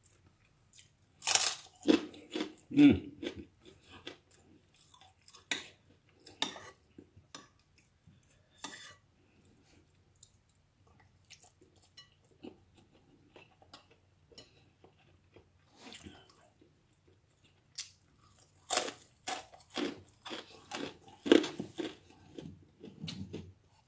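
A person chewing and biting food close to the microphone, in irregular bouts of wet mouth clicks, loudest about a second in and again near the end.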